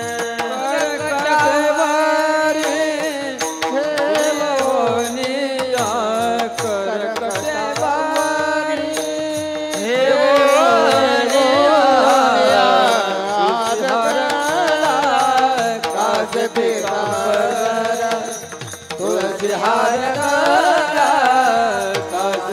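Marathi devotional bhajan (a panchapadi) sung by a male singer in long, drawn-out melodic phrases, with a hand drum keeping a steady beat and held instrumental tones underneath.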